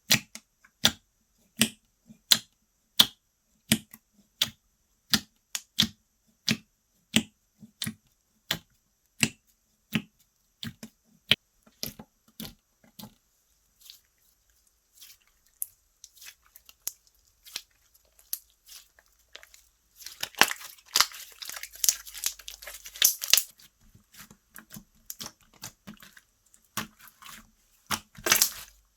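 Slime being pressed and squished by hand, making sharp, evenly spaced pops at about one and a half a second. After a short pause the slime is stretched and torn, giving a few seconds of dense crackling, and more crackling near the end.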